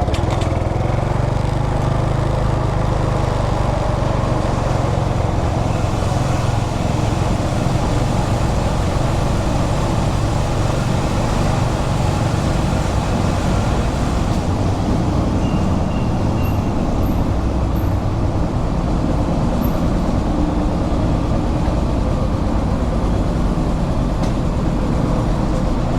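Yamaha SR400's carbureted single-cylinder engine running steadily at low speed.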